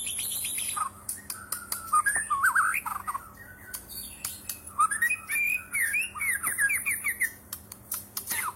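White-rumped shama singing a loud, varied song: whistled phrases and a rapid run of sweeping notes, with sharp clicks scattered through it.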